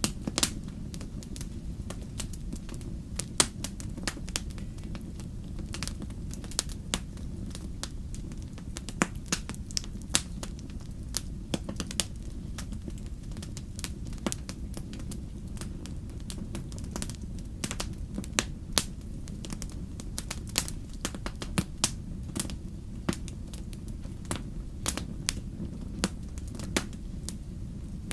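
Wood fire burning in a fireplace: a steady low rumble with irregular sharp crackles and pops, a few noticeably louder than the rest.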